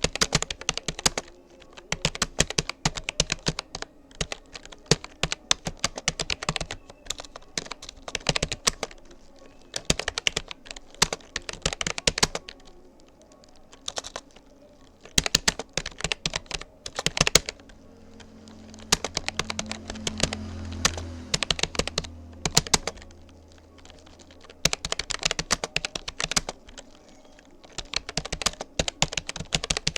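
Rapoo computer keyboard being typed on at a steady touch-typing pace: runs of rapid key clicks broken by brief pauses. A low hum swells and fades in the middle.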